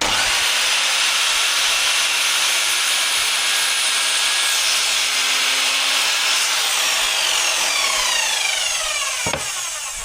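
Electric power saw starting at full speed and cutting wood. About six and a half seconds in, the motor is switched off and its whine falls steadily in pitch as the blade winds down. There is a single knock near the end.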